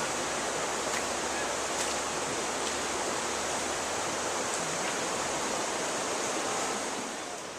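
Steady rush of flowing water, with a few faint ticks over it, easing a little near the end.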